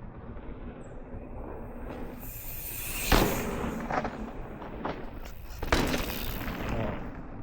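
A low rumble on the microphone with several sharp thumps and knocks, the loudest about three seconds in and another near six seconds.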